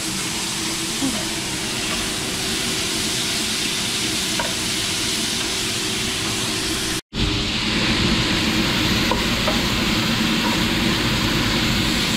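Food sizzling as it fries and is stirred in a hot pan. The sound drops out for an instant about seven seconds in, then carries on a little fuller.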